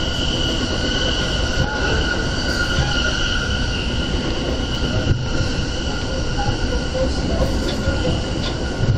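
Running noise inside an electric commuter train car at speed: a steady rumble of wheels on rail with a steady high whine over it.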